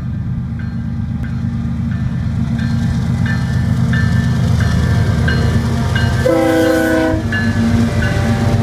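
Diesel freight locomotives rumbling louder as they pass close by, with a faint bell-like tone struck about every two-thirds of a second. About six seconds in, the lead locomotive's K5LA air horn sounds one blast of about a second.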